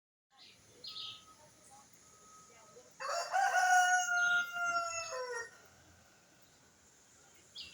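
A rooster crowing once: a single long cock-a-doodle-doo of about two and a half seconds, starting about three seconds in and dropping in pitch at its close.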